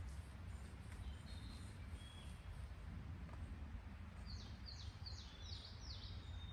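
Wild birds calling over a steady low outdoor rumble: a few faint whistled notes about a second in, then near the end a quick run of about six high notes, each sweeping downward.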